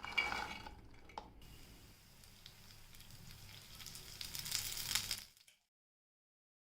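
Pea and potato kababs frying in oil: a soft, even sizzle that grows louder and then cuts off suddenly about five seconds in.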